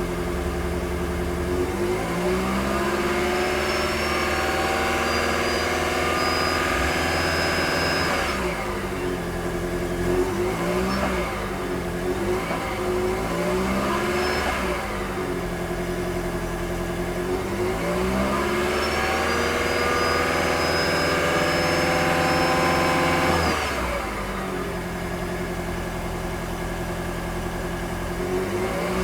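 2011 Toyota Prius's 1.8-litre four-cylinder engine being revved. The pitch rises and holds for about six seconds, drops back, blips briefly three times, then rises and holds again for about six seconds before dropping back.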